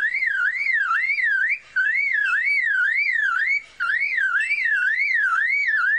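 Superb lyrebird mimicking a car alarm: a loud whistled tone warbling up and down about two and a half times a second. It comes in three phrases with two brief breaks.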